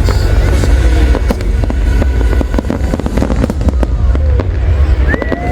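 Aerial fireworks going off in a continuous barrage: rapid overlapping bangs and crackles over a deep, steady rumble. A short whistling tone sounds near the end.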